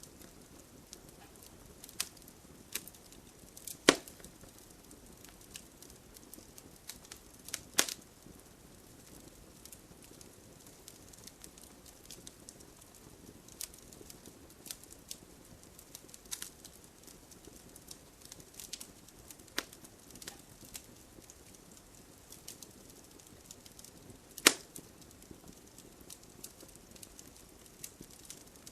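Wood fire crackling in a fireplace: a faint steady hiss with scattered sharp pops and snaps, three of them much louder than the rest.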